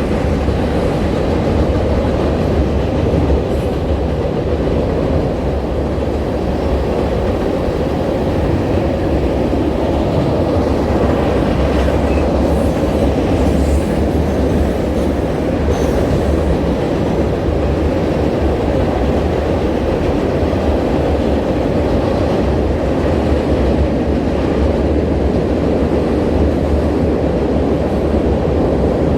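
A train running past on the tracks: a loud, steady rumble of wheels on rail.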